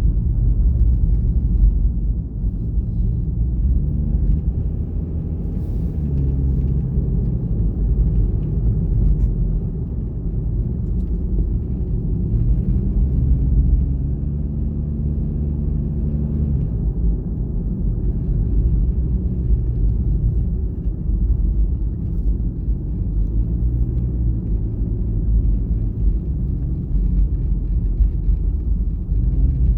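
Car driving: a steady low rumble of engine and road noise, with the engine note shifting in pitch several times.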